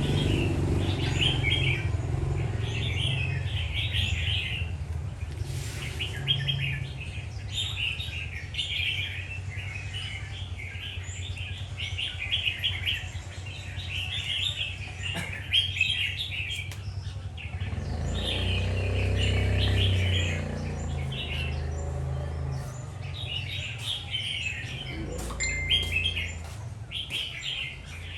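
Red-whiskered bulbul singing, with short chirpy phrases repeated with brief gaps. A steady low hum runs underneath and grows louder for a few seconds about two-thirds of the way through.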